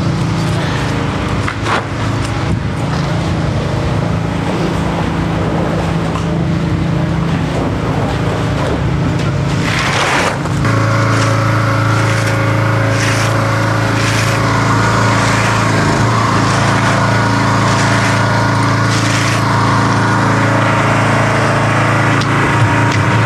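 Engine equipment on a concrete pour running steadily; about ten seconds in the engine sound changes to a stronger, higher tone, with several short noisy strokes over it in the second half.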